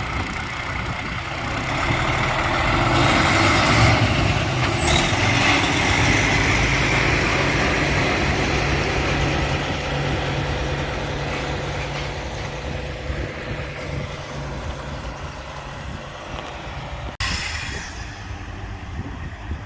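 Heavy truck engine running, with loud air and engine noise that builds over the first couple of seconds and is loudest around four seconds in. A brief hiss-like glide comes near five seconds, and the sound drops off abruptly about seventeen seconds in.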